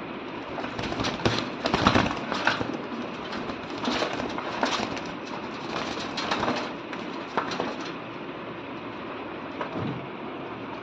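Pigeons fighting: irregular bursts of wing slaps and scuffling, heaviest about a second or two in and dying away after about eight seconds, over a steady background rumble.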